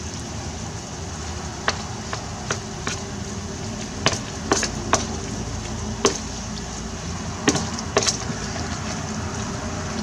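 Spoon stirring potato salad in a clear bowl, clinking against the bowl in irregular sharp clicks, about ten of them, over a steady low background hum.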